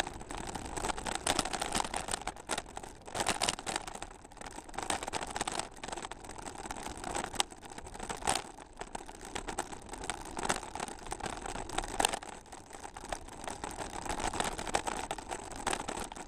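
Camera rattling and knocking irregularly as a bicycle rides over a rough, bumpy trail, with steady rolling noise underneath.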